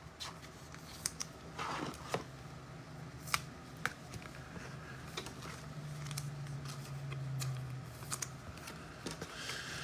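Trading cards and pack wrappers being handled: scattered light clicks and rustles over a faint low hum.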